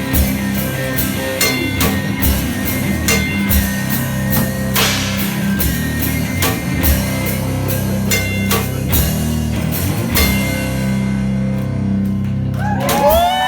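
One-man-band live rock music: guitar with foot-played kick drum and percussion. The drum strikes stop about three seconds before the end and the guitar rings on. Audience whoops and whistles begin right at the end as the song finishes.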